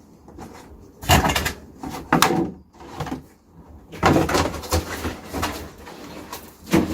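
Objects being handled and set down: about five short knocks and scrapes with quiet between them.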